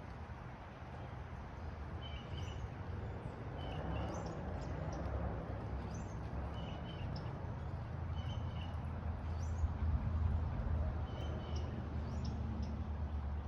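Small birds chirping, short calls repeated every second or two, over a steady low rumble.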